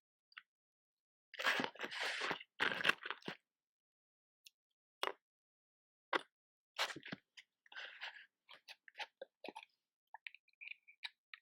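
Close-up ASMR handling of matches and a matchbox. Two rough scraping bursts, each about a second long, come in the first few seconds, followed by a scattered string of light clicks and taps.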